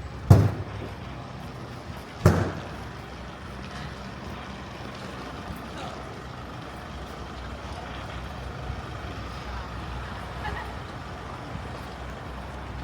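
Busy city street traffic, with two sharp loud bangs about two seconds apart near the start, then a steady hum of traffic.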